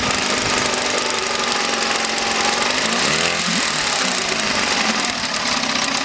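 1971 Mercury 7.5 hp two-stroke outboard motor running steadily, now running well after its carburettor cleaning and ignition repair. Its speed dips and picks back up about three and a half seconds in.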